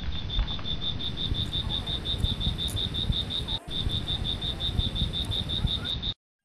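Insect chirping in a fast, even pulse of about seven high chirps a second, over a low rumble. The sound cuts off suddenly about six seconds in.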